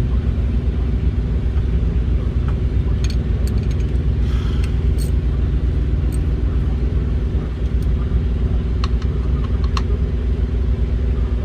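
Diesel truck engine idling steadily with a low drone, with a few sharp metallic clicks of hand tools scattered through it.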